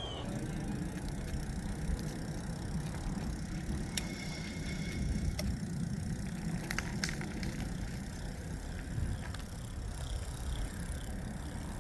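Wind buffeting the microphone and tyre noise from an e-bike rolling along a paved trail, a steady low rumble, with a few light clicks and rattles from the bike.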